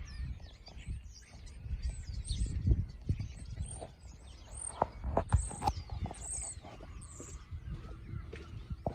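A flock of small birds chirping and twittering, many short high calls overlapping, over a low rumble, with a few sharp clicks about halfway through.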